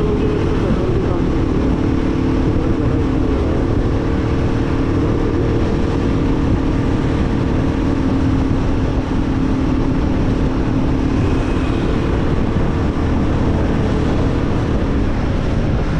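Royal Enfield Guerrilla 450's single-cylinder engine running at a steady highway cruise, its note holding even, over a constant rush of road noise.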